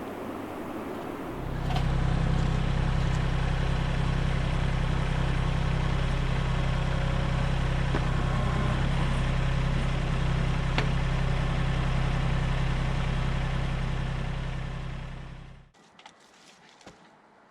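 An engine running steadily at idle, with an even low hum. It starts about a second in, then fades and stops near the end.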